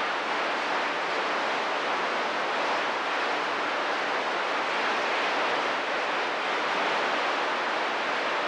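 Steady hiss of radio static from a CB radio receiver in a gap between transmissions.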